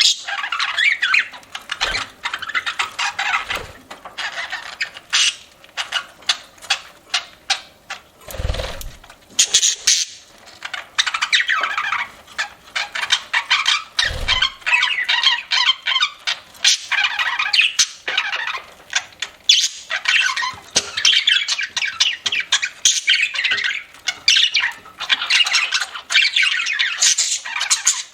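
Budgerigars chattering and chirping continuously, mixed with many sharp clicks of beaks pecking and cracking seed. There are two dull thumps, one about a third of the way in and one about halfway.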